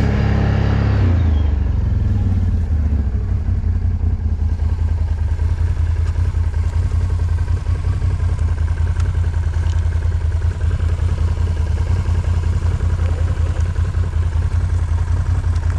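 Off-road vehicle engine running, easing off from higher revs in the first couple of seconds, then a steady low drone.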